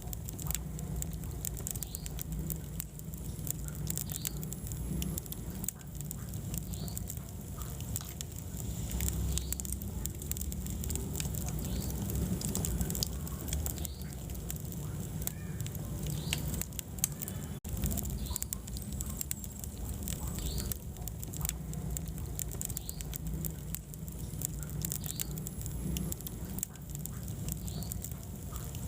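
Wood fire burning in a fireplace: steady crackling with many short sharp pops and snaps over a low, even rumble of the flames. The sound cuts out for an instant a little over halfway through.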